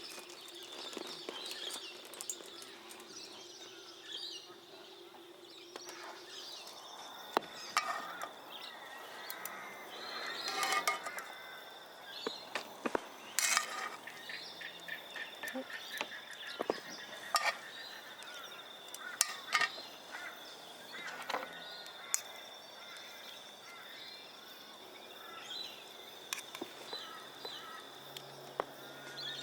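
Bush ambience: birds calling and warbling, strongest a few seconds in, over a steady high-pitched drone, with scattered sharp clicks and knocks.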